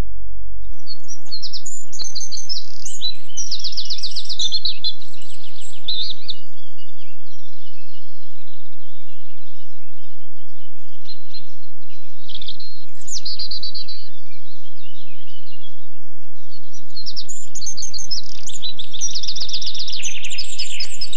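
Songbirds singing, several overlapping songs with fast trills and chirps, starting about a second in and swelling again near the end.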